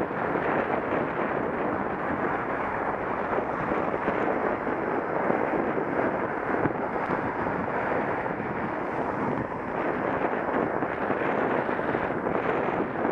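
Steady rushing wind noise on an action camera's microphone while riding a bicycle, at an even level.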